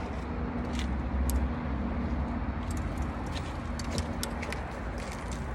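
Fishing rods being handled and slid under a strap on a car-roof rack, giving scattered light clicks and rattles over a steady low rumble.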